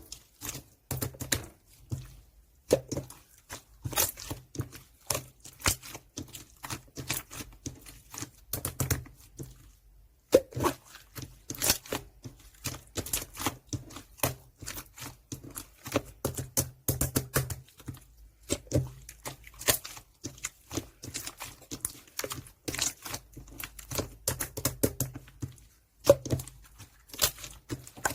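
Clear slime being squished and kneaded by hand, making many quick, irregular clicks and small pops, with brief pauses about two seconds in and again around ten seconds in.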